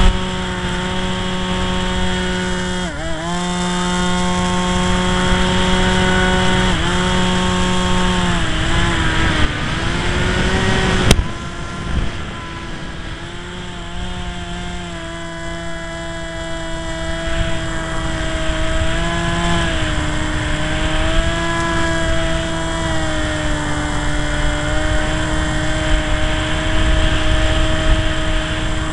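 Radio-controlled model plane's motor whining at a steady pitch. The pitch dips briefly about 3, 7 and 9 seconds in as the throttle changes, and the sound gets quieter and wavers in pitch after about 11 seconds. Heavy wind rumble buffets the microphone.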